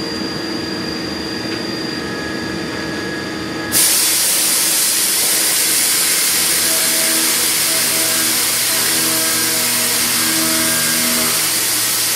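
CNC machining centre milling a pocket with a high-feed milling cutter. Steady machine hum at first; about four seconds in, a loud steady hiss starts suddenly, and from about halfway on, cutting tones come and go as the tool moves through the pocket.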